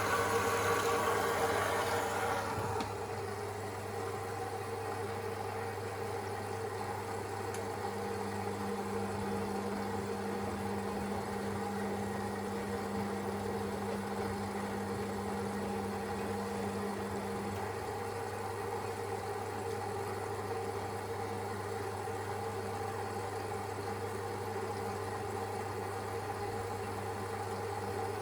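Siemens Extraklasse XLS 140 A washing machine running mid-cycle with a steady electric hum. A rushing noise stops about three seconds in, and a second, higher steady tone comes in for several seconds in the middle.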